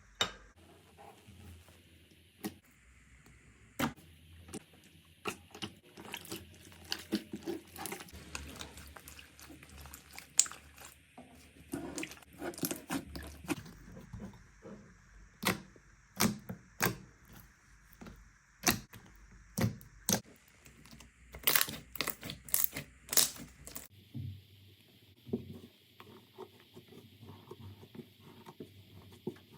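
Slime being worked by hand, giving a run of sharp crackling pops and clicks, thickest in a quick cluster about two-thirds of the way through.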